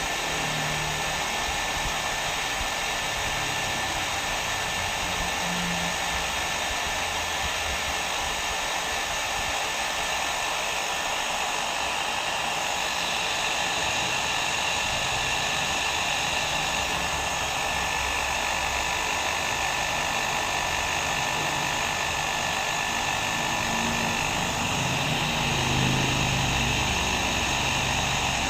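Hair dryer running steadily: an even rushing blow of air with a faint steady whine, unchanging throughout.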